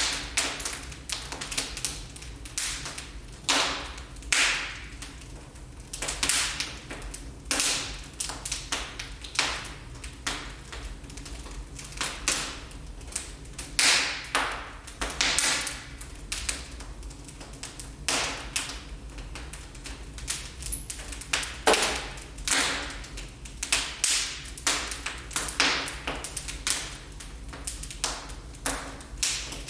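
Wood fire burning in a fireplace, crackling and popping irregularly, with a few louder snaps over a steady low hum.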